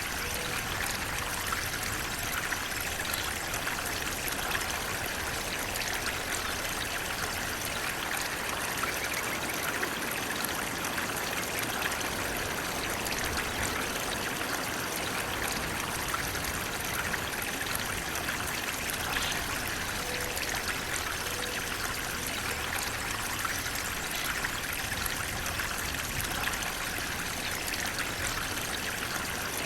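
Flowing water, a steady even rush with no breaks or changes, its sound lying mostly in the middle and upper range.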